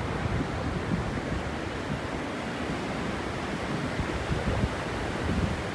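Steady sea surf with wind buffeting the microphone in irregular gusts.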